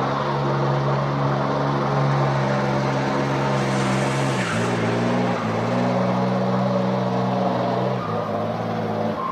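A motor vehicle engine running at a steady speed, its pitch stepping down and back up a few times.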